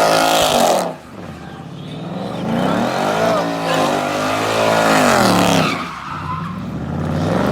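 Muscle car doing donuts, its engine revving hard and rising and falling in pitch under wheelspin, with the tyres squealing. The revs drop about a second in, climb again, ease off near the end, then rise once more.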